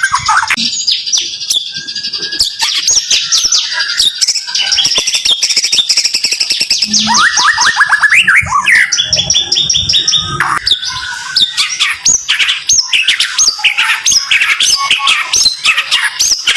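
White-rumped shama (murai batu) singing the fast, close-packed 'tembakan rapat' song: continuous rapid runs of repeated sharp chirps and whistled glides.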